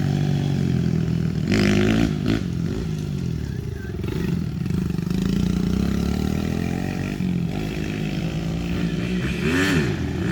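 Pit bike engine revving up and down as the bike is ridden, its pitch rising and falling with the throttle.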